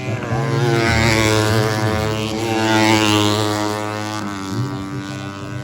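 Four-stroke 150cc underbone race motorcycles running at high revs. The engine pitch rises and falls as the riders go through the gears.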